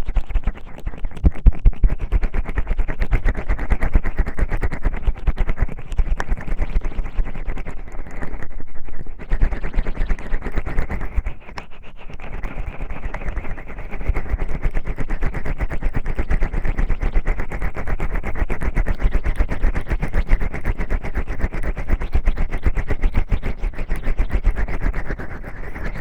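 Oiled hands massaging the ears of a 3Dio binaural microphone: a dense, close run of wet crackling and squelching, with brief lulls about nine and twelve seconds in.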